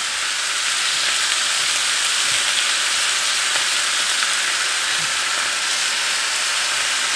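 Bratwurst and sliced onions frying in a pan, a steady sizzle.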